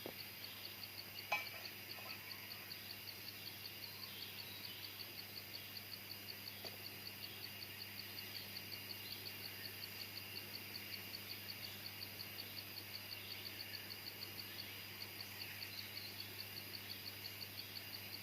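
Jungle insect chirping steadily, a high pulse repeating about four times a second, with faint bird calls. A single sharp click about a second in.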